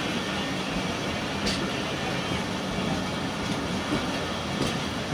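Pakistan Railways passenger coaches rolling past on the next track at close range: a steady rumble with a few sharp clacks of wheels over rail joints.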